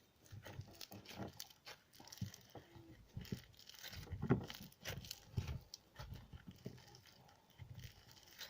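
Slime being squeezed and pulled apart by hand: irregular wet clicks, pops and soft squishes. The slime is still soft, not hardened.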